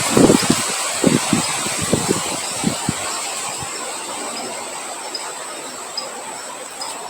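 Wind blowing outdoors, gusting against the microphone with low rumbles for the first few seconds, then settling into a softer steady rush. A thin steady high tone runs underneath throughout.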